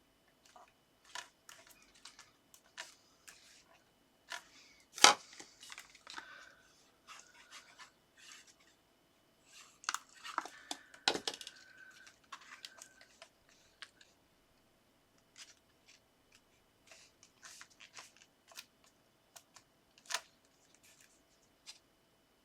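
Paper and card being handled on a craft table: scattered rustles, taps and clicks as card strips are lined up and pressed down, with a sharp click about five seconds in and a busier patch of clicks and scraping around the middle.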